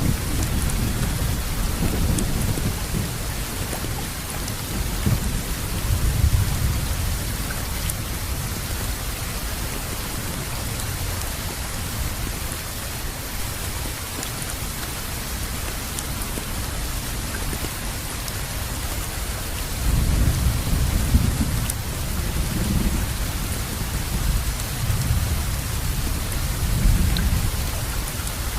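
Steady heavy rainfall, with low rumbles of distant thunder swelling and fading several times, strongest about two-thirds of the way through.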